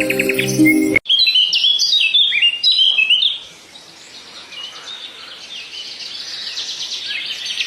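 Songbirds calling: after a brief stretch of music with chirps, a quick run of loud, sharp, down-slurred whistled notes lasts about two seconds. Softer, continuous high twittering follows and slowly grows louder.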